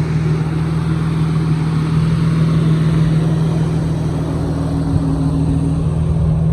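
Single-turbo Audi B6 S4's 4.2-litre V8 running at a steady engine speed, with no rise in revs.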